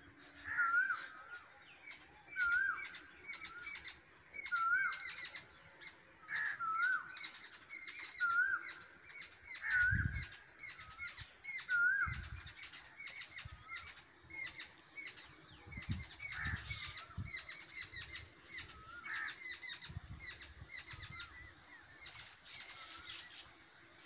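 Several birds singing: a short whistled note with a hooked upturn repeated every second or two, among quick high chirps, over a faint steady high tone. A few soft low thuds, the first about ten seconds in.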